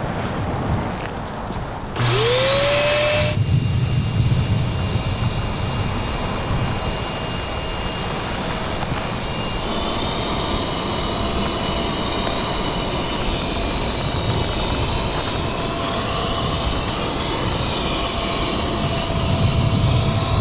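Electric air pump starting up about two seconds in, its whine rising quickly and then holding steady as it inflates an inflatable tent. Its tone shifts slightly about ten seconds in.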